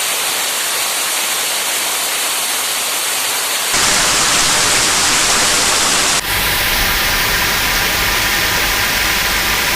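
Heavy rain making a steady, loud hiss, its sound changing abruptly twice, a little over a third of the way in and again past the middle.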